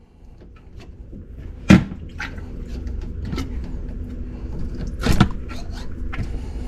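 Wet/dry shop vacuum motor starting up and running steadily, sucking water and gunk out of a clogged drain line, with a few sharp knocks of the hose and fittings, one loud about a second and a half in and another near the five-second mark.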